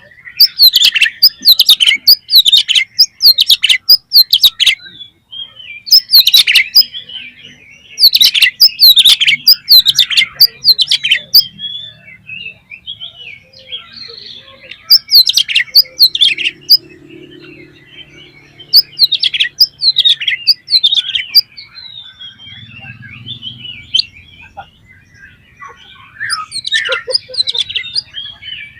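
Oriental magpie-robin (kacer) in loud full song: phrases of rapid, sharp high notes lasting a few seconds each, broken by short pauses, the last phrases quieter. This is the open, full 'ngeplong' song used as a trigger to provoke other magpie-robins into singing.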